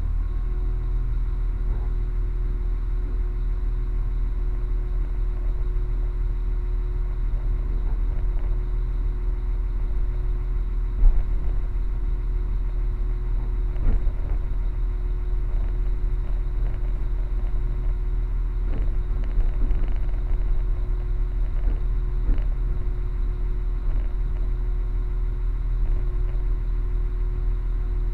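Steady low rumble of a moving train heard from inside the carriage, with a constant hum over it and a few short knocks from the wheels and track, the sharpest about eleven seconds in.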